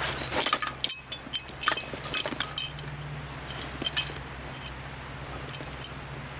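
Small metal items clinking and rattling as they are handled, a quick run of sharp clinks with a short ring in the first four seconds, then quieter. A steady low hum runs underneath.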